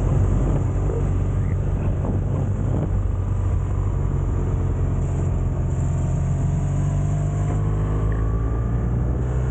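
Motorcycle engine running steadily under way, with a low hum and the revs climbing gently in the second half.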